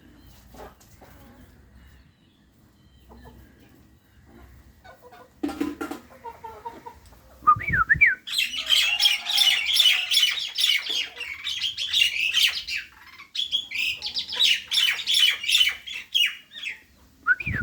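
Jalak (starling) singing: a few rising whistles, then a long run of rapid, scratchy chattering notes beginning about eight seconds in, with a brief pause in the middle. A single knock comes before the song.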